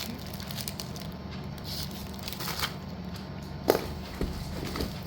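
Packets of slate pencils being handled: packaging rustling and crinkling with scattered light clicks, and one sharp click about three and a half seconds in, over a steady low hum.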